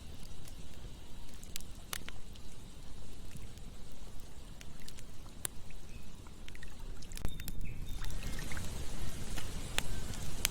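Campfire crackling, with scattered sharp pops, over the steady rush of a flowing river. About eight seconds in the water noise grows louder and a few short chirps come in.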